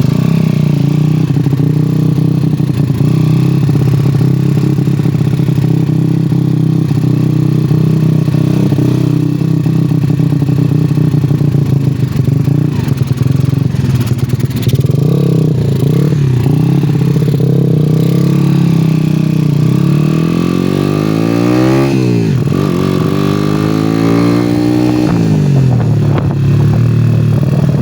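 Yamaha Jupiter Z (5TP) underbone motorcycle with a loud aftermarket exhaust running at a steady engine speed while ridden, then revving up and dropping back twice near the end.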